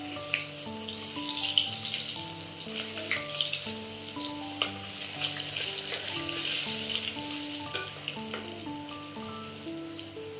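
Red chilli and garlic chutney sizzling and crackling in hot oil in a steel pressure-cooker pan, loudest in the middle and easing toward the end, while a metal ladle stirs it and clinks against the pot. A slow background melody runs underneath.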